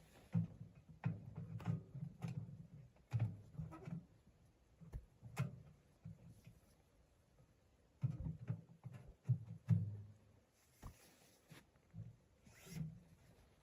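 Irregular soft knocks, clicks and rustles close to the microphone, in two busy spells with a quieter gap in the middle.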